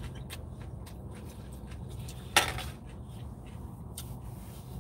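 Close-up mouth noises of someone chewing a mouthful of salad: small, scattered wet clicks, with one short louder rush of noise about two and a half seconds in. Under it runs a steady low hum inside the car.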